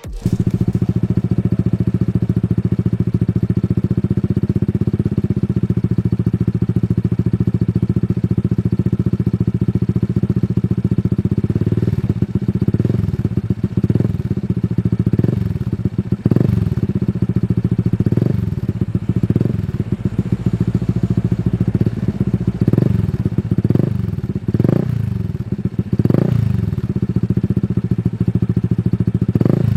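An engine idling steadily, then revved in a series of short blips, about one every second or two, from a little under halfway through.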